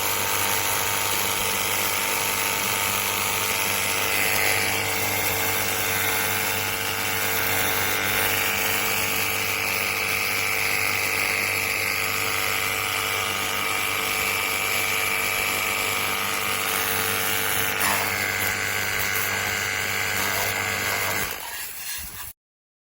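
Ontel Turbo Jet HydroX5 Pro cordless pressure washer's battery-powered motor and pump running steadily with a hum and a hiss, stopping abruptly near the end.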